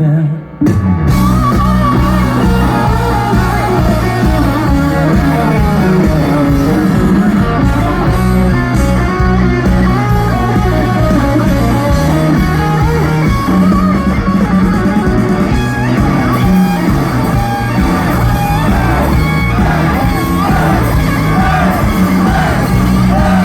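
Live rock band playing loud: electric guitar, bass and drums with sung vocals, the full band coming in after a brief drop just under a second in.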